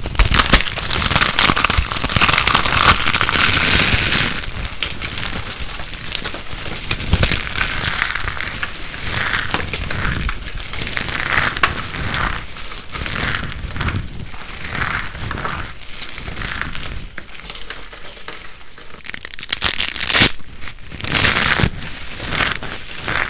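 Dry soap crunching and crackling under handling as it is cut and crushed, a dense run of fine crisp cracks. It is loudest in the first few seconds, with sharper bursts near the end.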